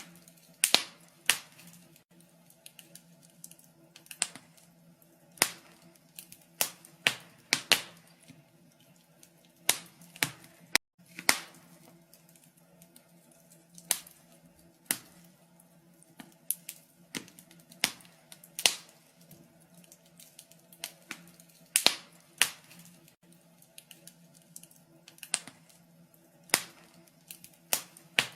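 Wood fire crackling in a fireplace: irregular sharp pops and snaps, roughly one a second and sometimes two in quick succession, over a faint steady low hum.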